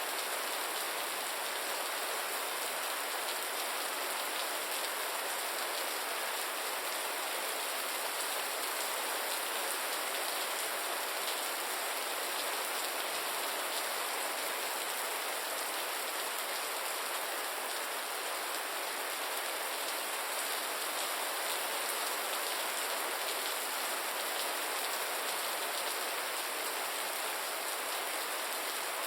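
Steady rain falling, an even hiss of many drops with no single events standing out.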